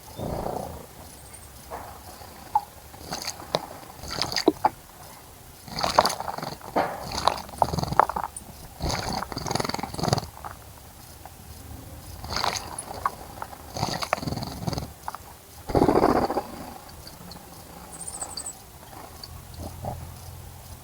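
A bird bathing in a bird bath: irregular bursts of water splashing and wing fluttering, with one louder, rougher burst about sixteen seconds in.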